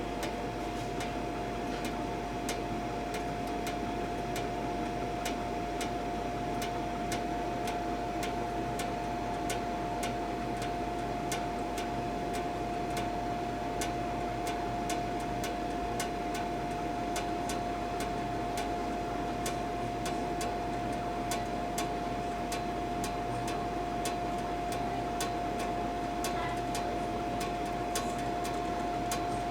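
Monitor 422 kerosene heater running with its burner lit: a steady whine from its blower over a soft hiss, with a regular ticking of about two ticks a second, typical of the heater's pulsing fuel pump.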